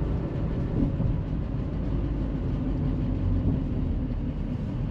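Ford F-550 dump truck's 6.0 L Power Stroke V8 diesel running steadily as the truck is driven, with a low rumble and road noise.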